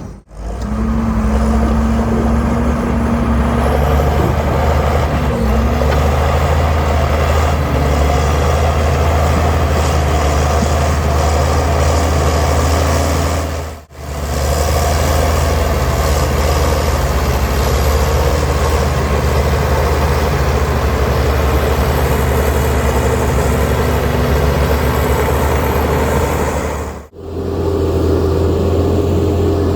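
Heavy diesel earthmoving machinery running steadily under load. The sound drops out for an instant twice, about halfway and near the end, and the engine note changes after each break.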